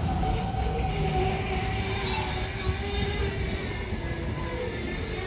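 Freight train hauled by a Class 88 locomotive crawling through the station, its wheels giving a steady high-pitched squeal over a low rumble.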